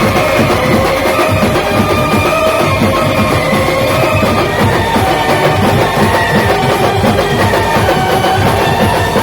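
Loud band music: a fast, dense drum beat under a melody of held notes, playing steadily without a break.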